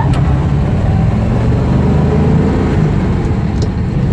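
1956 Ford Thunderbird's 312 V8 running steadily under way, heard from inside the open-cabin convertible with road and wind noise.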